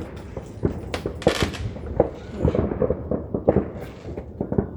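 Firecrackers popping in quick, irregular succession, like scattered gunshots, with a short hiss about a second in.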